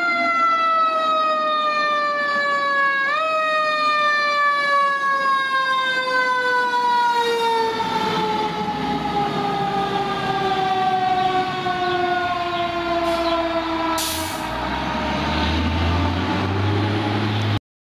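Fire engine siren sounding one long tone that falls slowly and steadily in pitch, with a short upward blip about three seconds in. Near the end a low engine rumble comes up under it, and the sound cuts off suddenly.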